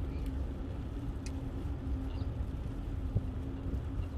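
Steady low rumble of riding a bicycle on a paved path, the wind and tyre noise of the ride, with a steady low hum. A single knock comes about three seconds in, and a few faint high chirps are scattered throughout.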